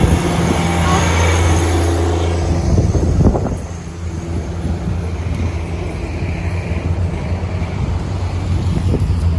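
A vehicle engine running with a steady low hum, under street noise, with a brief knock or two about three seconds in.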